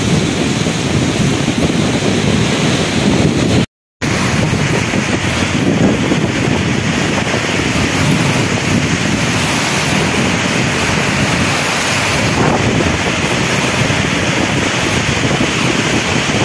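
Heavy rain and strong storm wind, with the wind buffeting the microphone in a steady rumbling rush. The sound cuts out briefly about four seconds in, then carries on the same.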